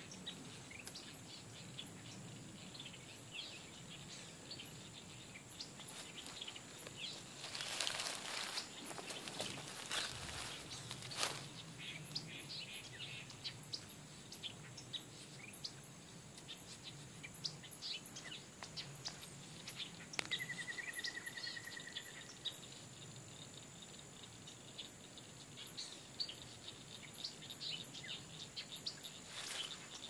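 Wild birds chirping and calling in riverside woodland, many short high notes scattered throughout, with a rapid trill lasting about two seconds about two-thirds of the way through. A steady high buzz runs underneath, and a couple of brief rustling noises come about a quarter and a third of the way in.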